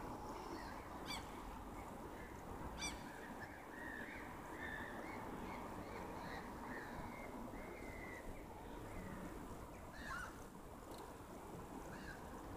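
Birds calling over a steady outdoor background hiss: two sharp calls early, then a run of short calls between about four and eight seconds in, and a falling call near the end.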